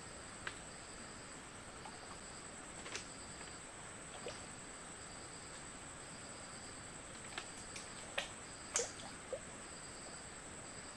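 Night insects in forest: one high-pitched steady trill, with a second, lower insect chirping on and off about once a second. Scattered sharp clicks or taps come through it, the loudest about three-quarters of the way in.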